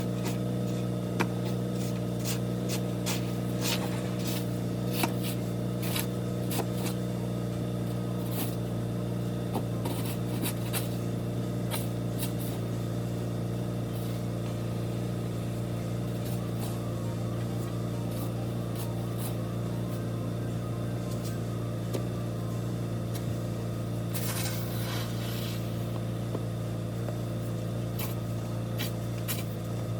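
A steady motor hum with scattered light clicks, and a short hiss about twenty-four seconds in.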